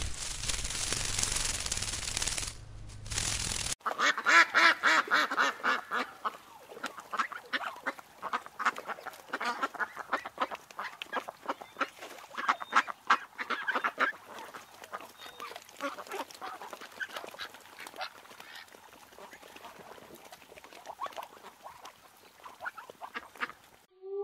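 A steady hiss for the first few seconds, then ducks quacking over and over, in quick runs of calls, loudest at first and growing fainter over the last ten seconds.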